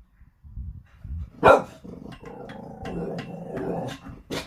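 Dog barking loudly once, then a low growling grumble for about two seconds, with a short sharp sound near the end.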